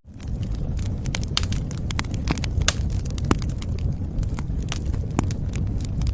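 Wood fire crackling: irregular sharp pops and snaps over a low, steady rumble of burning. The sound drops out for an instant at the very start and swells back in.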